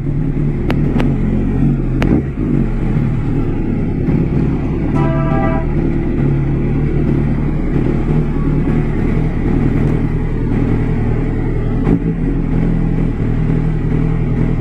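MV Agusta F4 RC's inline-four engine running steadily at low revs while the bike rolls slowly. A short horn beep sounds about five seconds in.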